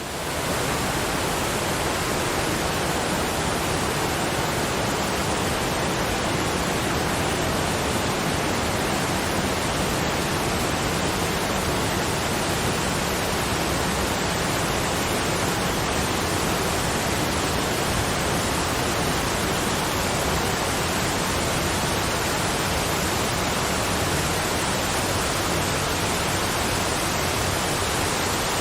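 Steady, even rush of falling water from a waterfall, an unbroken noise with no changes.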